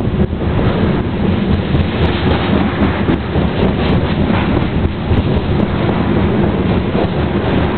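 Covered hopper cars of a BNSF grain train rumbling past close by: a steady, loud roll of steel wheels on rail.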